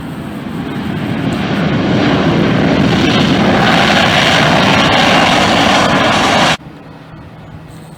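An airliner passing close by with its engines running. The rushing roar swells to very loud over a few seconds, then cuts off suddenly about two-thirds of the way through.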